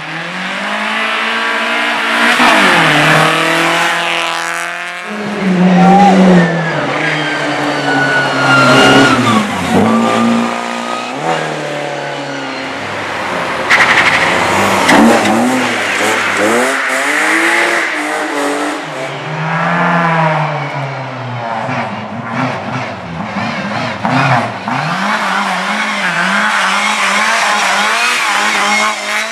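Racing car engines revving hard, their pitch climbing and dropping through gear changes as several cars pass in close succession, with bursts of tyre squeal.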